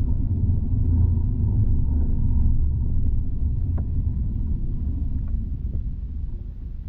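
Tram ride heard from inside the car: a steady low rumble of wheels on rails and running gear, with a few faint clicks. The rumble fades over the last couple of seconds.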